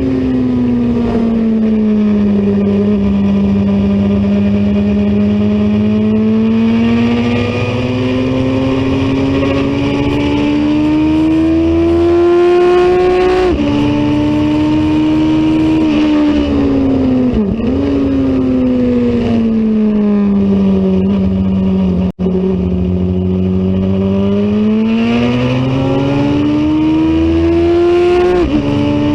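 Race motorcycle engine running hard at high revs. Its pitch climbs slowly and falls again as the bike accelerates and slows, with sudden drops at upshifts about halfway through and again near the end. A quick dip comes shortly after the first shift.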